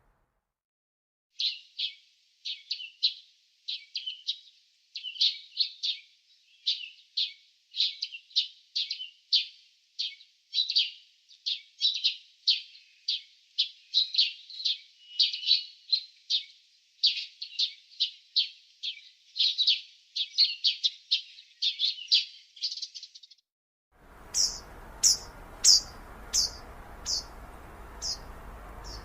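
Songbirds chirping: a long, fast run of sharp chirps, several a second, over dead silence, stopping at about 23 seconds. After a brief gap a faint outdoor hiss comes in, with a slower series of higher, falling chirps about one a second.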